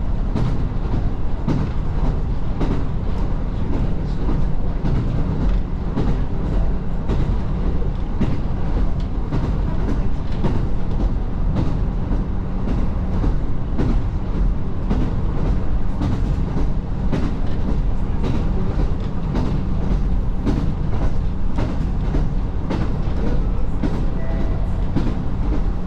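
Diesel railcar running along the line, heard from on board: a steady low rumble with the wheels ticking over rail joints and a faint steady hum.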